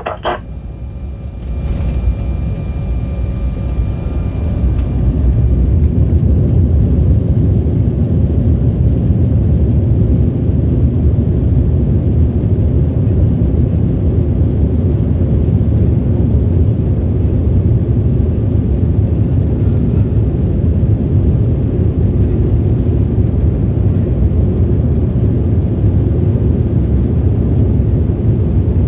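Airliner jet engines heard from inside the cabin, spooling up for takeoff. The low rumble rises over the first few seconds, then holds loud and steady through the takeoff roll.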